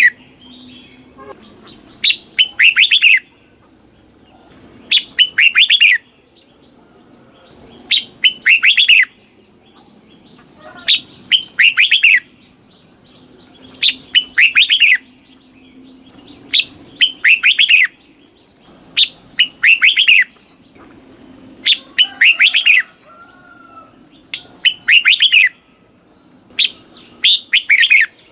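Red-whiskered bulbul singing: loud, short song phrases of quick falling notes, each about a second long, repeated roughly every two and a half to three seconds.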